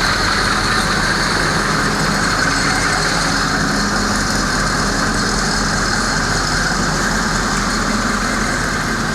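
Steady machine running at idle, a constant hum with a faint high whine that does not change.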